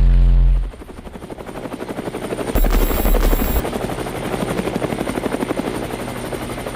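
A song's held bass note cuts off under a second in, then a helicopter's rotor chops fast and steadily, growing louder, with a brief low rumble about halfway through.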